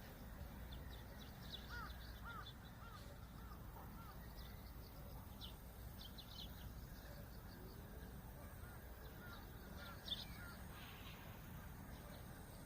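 Birds calling: two runs of short, repeated arching notes, with thinner high chirps among them, over a steady low rumble of wind. There is one brief sharp tap about ten seconds in.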